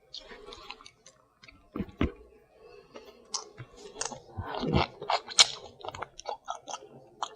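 Close-miked chewing and lip-smacking as a person eats lobster claw meat, full of short wet clicks and crackles. Two low thumps come about two seconds in.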